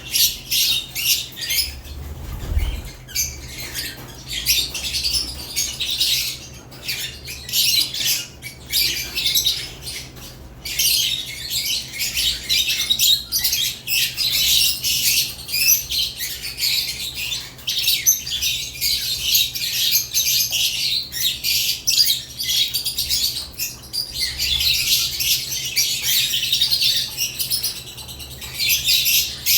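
Caged lovebirds chirping and squawking continuously, a dense chatter of rapid high-pitched chirps with a brief lull about ten seconds in.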